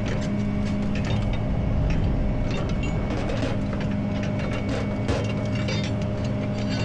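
Tow truck engine idling steadily, with scattered metallic clicks and clanks over it.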